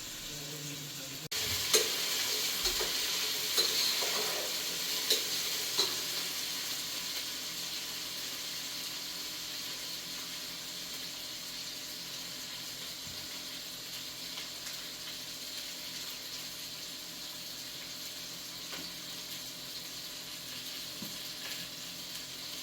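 Food sizzling as it fries in a pan, starting abruptly about a second in and slowly easing off. A few sharp clinks of a utensil against the pan come in the first six seconds.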